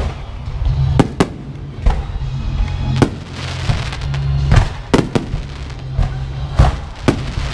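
Fireworks going off in about ten sharp bangs at irregular intervals, over steady music with a deep bass line.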